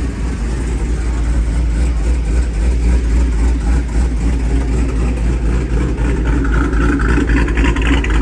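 Deep, steady engine rumble of a car or truck at low speed, growing a little louder toward the end.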